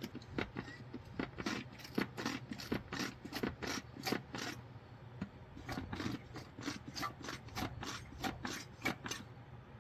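Gear oil bottle, Lucas 75W-90, draining through a straw into a rear differential, its plastic giving off irregular crackling clicks, several a second, as the oil runs out of it.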